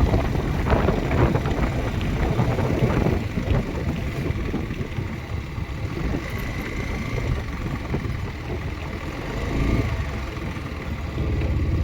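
Motorcycle engine running while riding, with wind on the microphone; the engine noise grows a little louder near the end.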